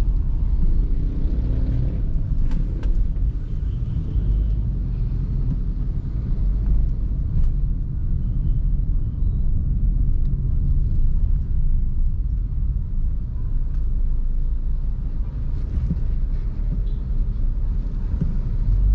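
Car engine and road noise while driving: a steady low rumble, with a few faint clicks and brief higher tones from the street.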